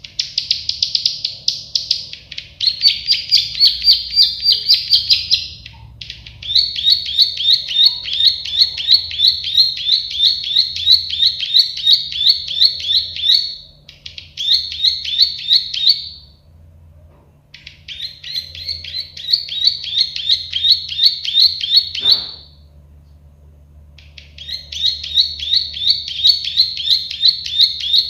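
Prenjak sawah (klik-klik bird), a small prinia, singing long phrases of rapid, evenly repeated high notes, about four a second, broken by short pauses of a second or two. A single sharp click sounds about three-quarters of the way through.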